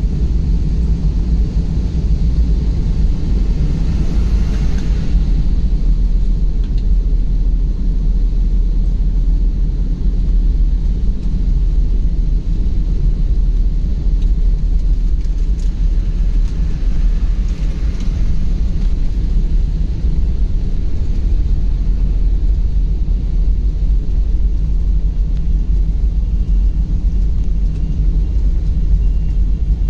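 Moving car's steady low rumble of road and engine noise, with a brief hiss about four seconds in.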